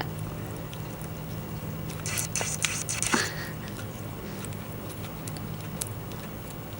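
Argentine black and white tegu licking up raw egg: a short run of wet clicking and crackling about two to three seconds in, over a steady low hum.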